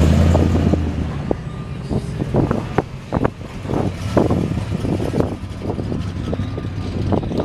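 Classic cars driving slowly past: a steady low engine rumble, loudest in the first second as a 1953 Ford passes, then an uneven, lumpy exhaust burble as a late-1960s muscle car pulls by.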